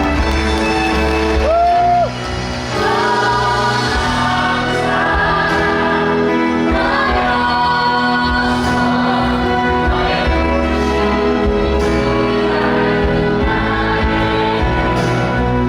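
Musical-theatre cast singing together over the show's live band during the curtain call. One voice holds a long single note near the start, then the ensemble sings in chorus.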